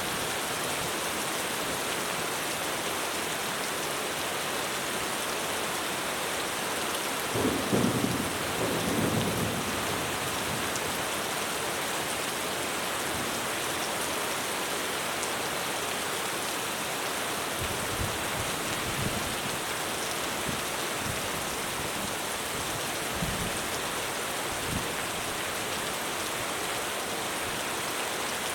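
Heavy rain drumming steadily on a roof, with a burst of low thunder rumbling about seven to ten seconds in and a few faint low rumbles later.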